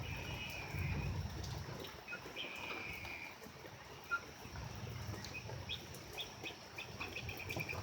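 Faint outdoor ambience: scattered short high chirps and calls of small animals, with a soft low rumble that is strongest in the first second and a half and comes back around the middle.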